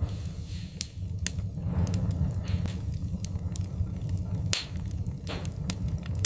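Wood fire crackling in a fireplace: a steady low rumble with scattered sharp pops and snaps, the loudest about four and a half seconds in, and a few brief hisses.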